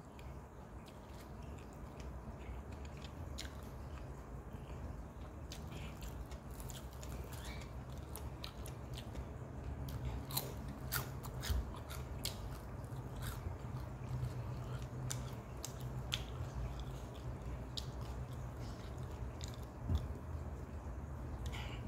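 A person chewing and biting fried noodles and rice eaten by hand, with many short scattered clicks, thickest in the middle, over a steady low hum.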